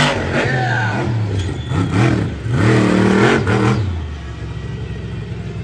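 Monster truck engine revved hard several times in quick rises and falls, then dropping to a lower, steadier run about four seconds in.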